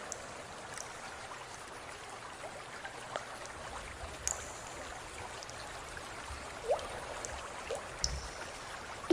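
Water trickling steadily, with a few short rising plinks of drops landing in water, two of them close together about two-thirds of the way through.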